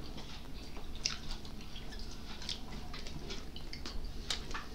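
Chewing with small wet mouth clicks and smacks, scattered irregularly, from people eating close to the microphone.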